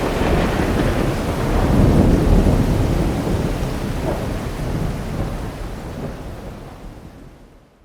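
Thunderstorm recording: steady rain with a low rolling thunder rumble that swells about two seconds in, then the whole storm fades out gradually to silence.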